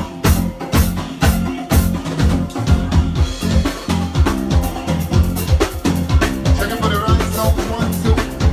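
Live band playing uptempo soca: a drum kit keeping a steady fast beat over bass and other instruments.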